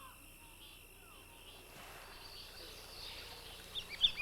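Faint wetland ambience: a pulsing insect trill with a bird's short falling call about once a second, then a soft hiss and, near the end, a quick run of high chirps.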